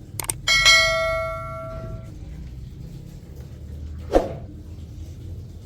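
A metal object struck once, ringing with a clear bell-like tone that fades over about a second and a half, just after two quick clicks. A single sharp knock follows about four seconds in.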